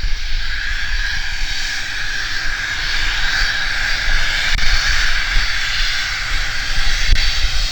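Cessna 550 Citation II/SP business jet's two Pratt & Whitney JT15D turbofans running: a steady rushing jet noise over a low rumble.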